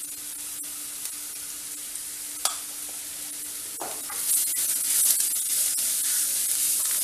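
Sliced onions sizzling in oil in a clay pot, with a spatula tapping and scraping against the pot now and then. About four seconds in the frying grows louder as the onions and chilli powder are stirred together.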